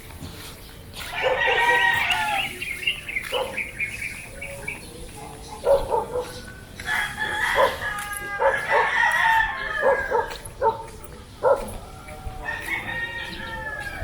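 Roosters crowing several times, each crow lasting a second or two, with short clucks in between.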